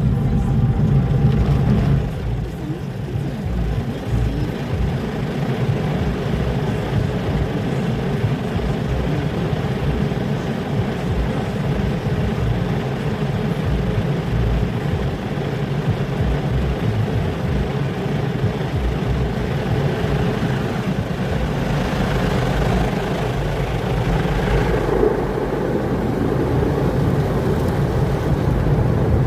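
Automatic car wash working over a car, heard from inside the cabin: a steady low rumble of brushes and water spray, swelling and growing hissier about three-quarters of the way through.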